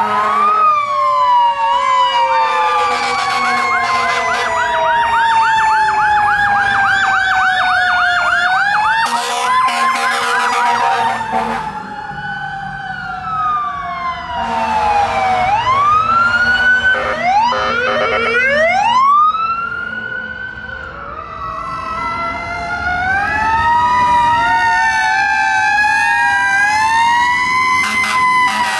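Several fire truck sirens sounding together as the trucks pass. A slow, deep wail winds up and falls away over several seconds, the kind a Federal Q mechanical siren makes, layered with faster rising and falling electronic siren sweeps.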